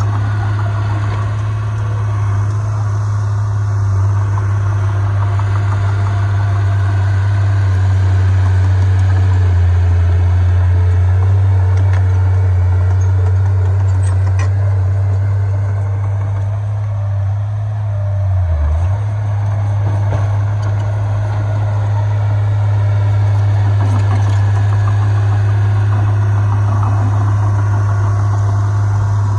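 Heavy diesel engine of earth-moving machinery running steadily with a strong low hum, which wavers briefly about two-thirds of the way through.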